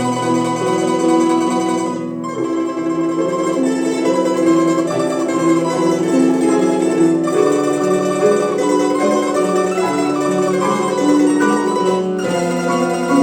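A quartet of domras, Russian plucked string instruments, playing a melody in several parts, with held notes moving about once a second over lower accompanying lines.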